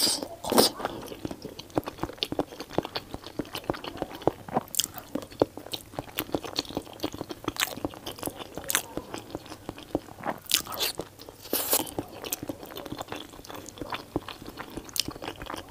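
Close-miked eating sounds: a person biting and chewing a soft boiled egg, then glazed eel and spicy instant noodles. The chewing comes as a steady run of small mouth clicks and smacks, with a few louder bites about half a second in, around five seconds in, and again around eleven seconds in.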